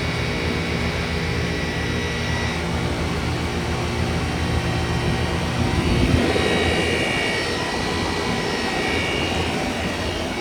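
Window-unit heat pumps running in heat mode, a steady compressor and fan hum with a thin high whine. About six seconds in the sound swells and the whine changes pitch.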